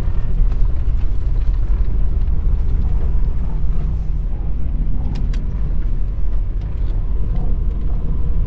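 Semi truck's diesel engine running at low speed, a steady low rumble with a few light clicks and rattles over it.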